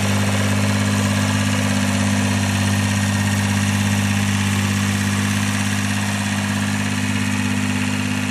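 Tractor engine idling steadily, an even low hum that holds one speed throughout.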